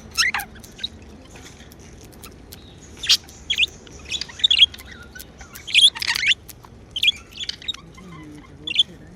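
Pet budgerigars chirping: short, scattered high chirps and tweets, sparse at first and busier from about three seconds in.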